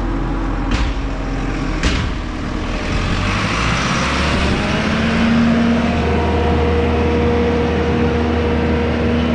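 Large Rolls-Royce turbo diesel engine running. About three seconds in its speed picks up, and it settles at a higher, steady pitch. Two sharp knocks sound in the first two seconds.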